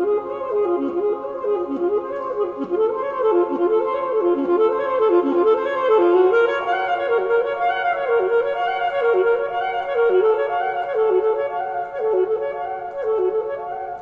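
Music led by a reedy wind instrument playing a short melodic phrase over and over, each note scooping down and back up about twice a second.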